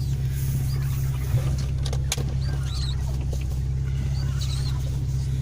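Car engine idling steadily with a low, even hum, with faint high chirps over it and a single click about two seconds in.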